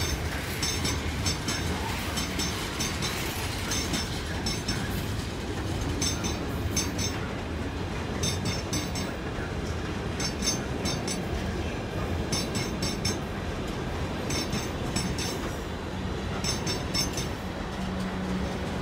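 A container freight train of flat wagons passes close by with a steady rumble. Its wheels click in regular clusters, about every two seconds, as each wagon's bogies run over the rail joints. A second train's steady hum joins near the end.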